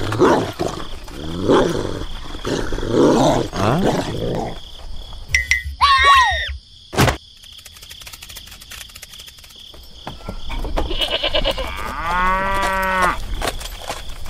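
Animal sound effects: a dog's repeated pitched cries, about one a second, over the first four seconds. Then a short high squeak and a sharp click around six to seven seconds in, and one long cow moo near the end.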